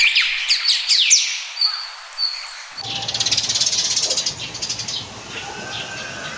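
Birds chirping and whistling, with quick falling chirps in the first few seconds, then a denser buzzing trill joined by a low rumble about three seconds in.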